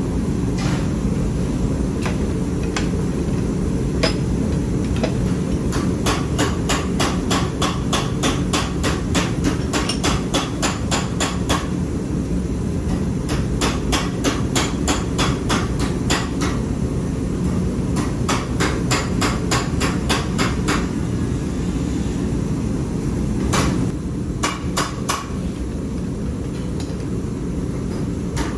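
Hammer blows on hot metal, spreading and flattening the end of a small forged Mjolnir pendant: a few scattered strikes at first, then steady runs of about two to three blows a second, with short pauses between runs. A steady low roar runs underneath.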